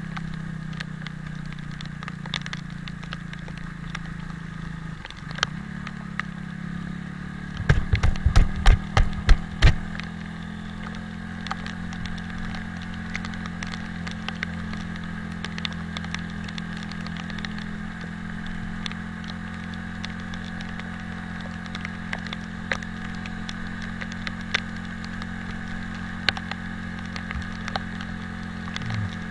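Italika 250Z motorcycle engine running steadily on the move, with a burst of loud low thumps about eight seconds in and scattered light ticks.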